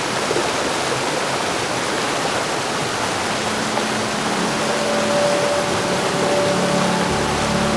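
Heavy rain falling in a steady, dense hiss. About halfway through, soft sustained musical tones fade in beneath it, with a low drone joining near the end.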